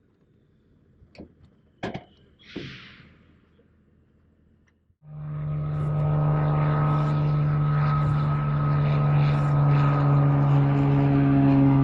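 A few sharp clicks and a short hiss, then about five seconds in a light aircraft's piston engine catches abruptly and runs on steadily, growing slightly louder as it settles.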